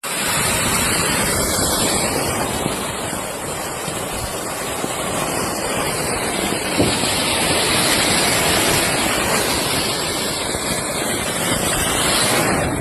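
Rail (train) firecracker burning with a loud, steady hiss of spraying sparks, which cuts off suddenly near the end as it burns out.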